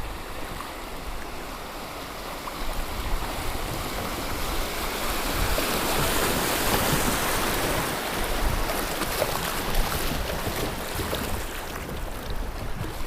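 Fast river water rushing and splashing around a kayak, swelling louder in the middle and easing off toward the end.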